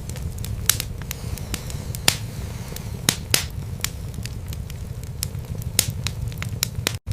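Wood fire burning in a fireplace: irregular sharp crackles and pops over a steady low rumble of the flames. The sound cuts out for an instant near the end.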